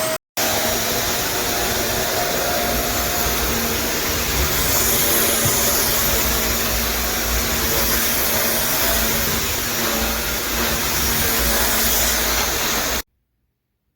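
Upright vacuum cleaner running steadily. The sound drops out for a moment just after the start and stops abruptly near the end.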